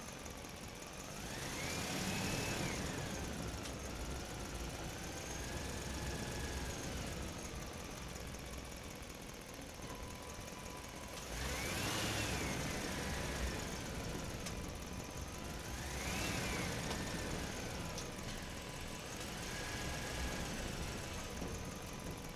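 A motor running with its whine rising and falling in pitch four times, as if revved up and eased off, over a steady mechanical hum.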